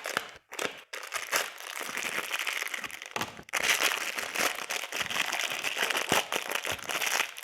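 Plastic packet of fan screws being handled and opened, crinkling on and off with small clicks.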